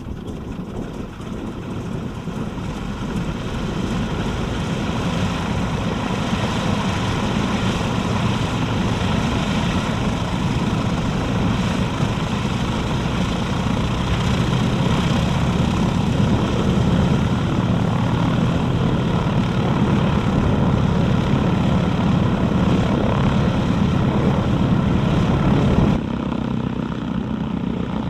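Harvard trainer's radial engine and propeller running steadily. The sound grows louder over the first few seconds and drops abruptly near the end.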